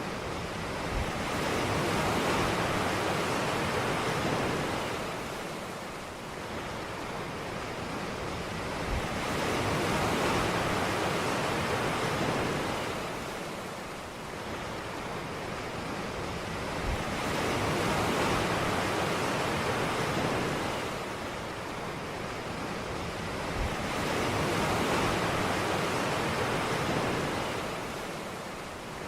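Ocean waves breaking and washing on a beach, the surf swelling and easing back roughly every seven to eight seconds.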